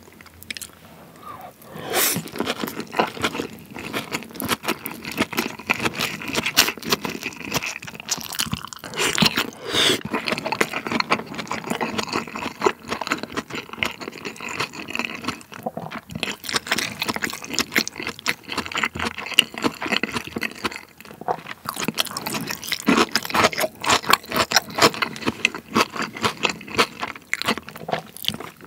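Close-miked chewing of a large salmon nigiri topped with sliced raw onion: a dense, irregular run of short crunching and clicking mouth sounds that starts about two seconds in.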